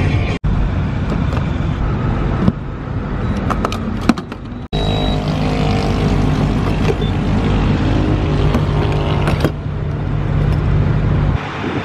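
Car engine and road noise, heard in short cut-together pieces; a steady low engine hum runs through the second half and drops away near the end.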